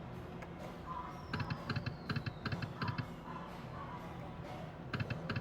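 Thunder Cash slot machine playing its game sounds: bursts of rapid clicks, with a faint falling tone about a second in, over a steady low hum.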